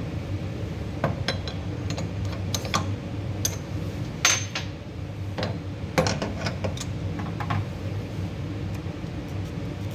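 Metal engine parts clicking and clinking as they are handled on a workbench, a few strikes ringing briefly, over a steady low hum like a shop fan.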